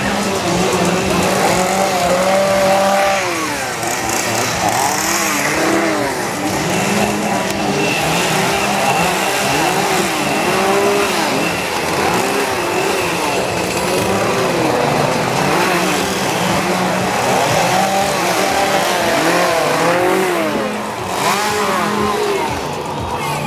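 Several small engines revving up and falling back over and over, overlapping, over a steady low hum.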